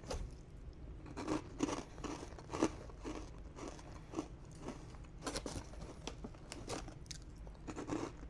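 A person biting into and chewing a crunchy snack, with irregular crunching strokes throughout.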